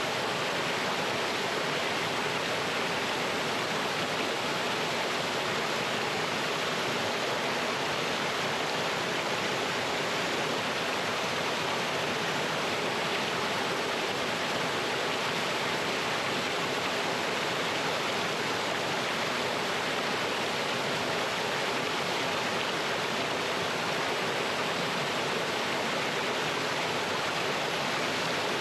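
Mountain stream running over rocks with a small waterfall: a steady, even rush of water.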